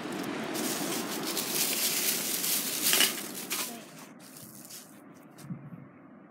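Sea waves washing in: a hissing rush of water that swells over about three seconds and falls away about four seconds in, leaving a faint hiss with a few light knocks.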